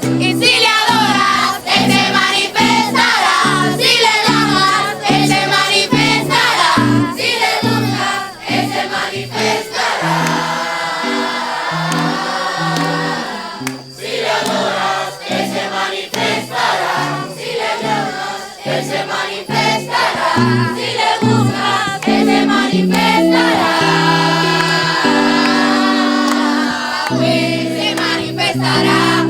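A group singing a Christian worship song together, over sustained instrumental chords.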